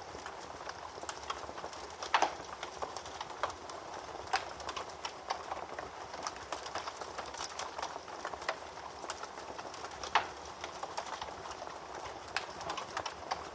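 Wood fire in a fireplace crackling steadily, with many small snaps and two louder pops, one about two seconds in and one near ten seconds.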